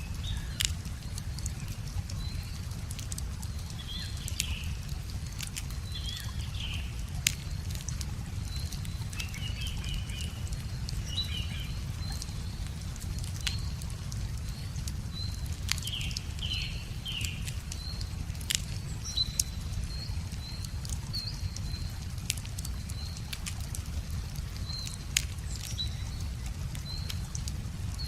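Wood fire crackling, with sharp pops at irregular moments, over a steady low rush of a river. Small birds chirp in short bursts throughout.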